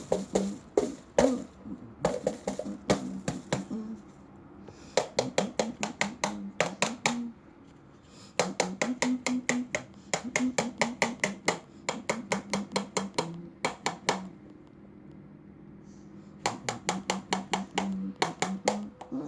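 A parrot's beak crunching food in rapid sharp clicks, about five a second, in runs of a few seconds broken by short pauses. Faint low tones sound underneath.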